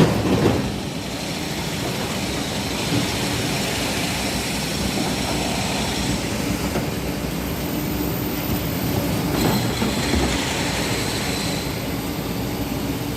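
Excavator's diesel engine and hydraulics running steadily while it works. A loud clatter comes right at the start and a smaller one about ten seconds in.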